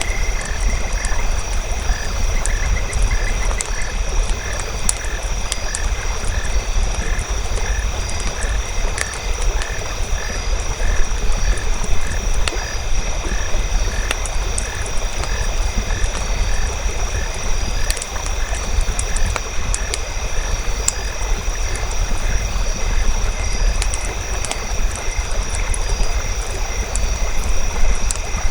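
Campfire crackling with scattered sharp pops over a steady low rumble, while frogs call in a regular pulse of about two croaks a second that fades out about halfway through. A steady high-pitched drone runs underneath.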